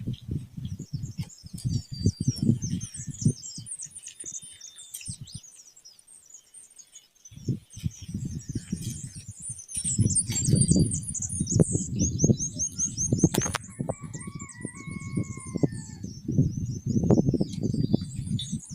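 Several small birds chirping in quick high notes, with a fast trill about halfway through and a short whistled call just after. An irregular low rumble runs under most of it and drops away for a couple of seconds near the start.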